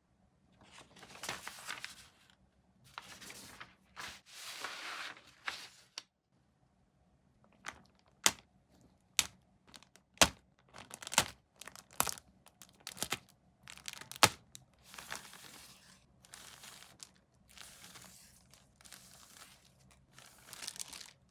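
Plastic kit packaging crinkling and tearing in short bursts, with a run of sharp clicks and knocks in the middle, about one or two a second, followed by more rustling.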